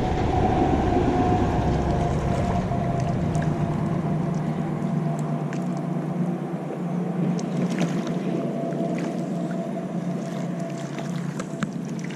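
A boat engine running steadily out on the lake at an even pitch. Its deepest rumble drops away about four seconds in, with faint scattered clicks over it.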